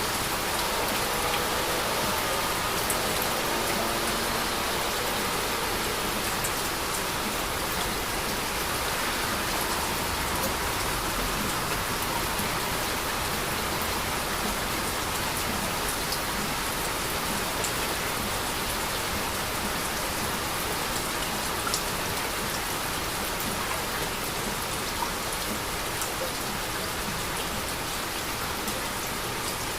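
Heavy rain falling steadily: a dense, even hiss with scattered sharper ticks of individual drops striking a surface.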